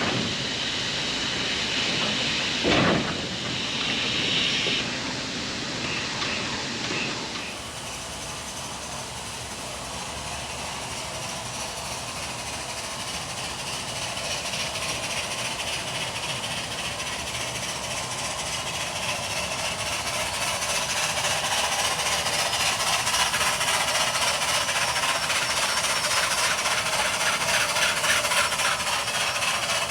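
Coal-fired narrow-gauge steam locomotive hissing steam, a steady hiss that grows louder through the middle and then holds. A single sharp knock comes about three seconds in.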